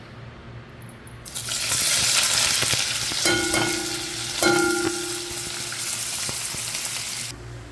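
Chicken frying in hot oil, the sizzle starting loud about a second in as it hits the pan. Two short squeaks come in the middle, and the sizzling cuts off suddenly near the end.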